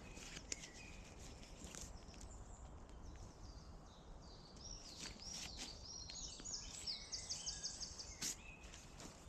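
Faint woodland birdsong, with one bird giving a fast run of repeated high chirps about seven seconds in. A few sharp clicks and rustles sound over it.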